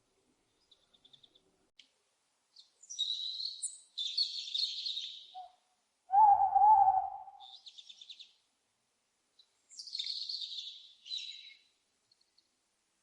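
Owls screeching: harsh, hissy, high-pitched screeches in two clusters, with short rapid chittering trills between them. About six seconds in comes a lower, wavering call, the loudest sound here.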